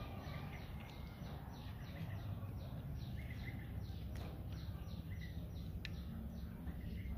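Small birds chirping repeatedly in quick falling chirps, over a low steady background noise. A couple of sharp clicks stand out, about four and six seconds in.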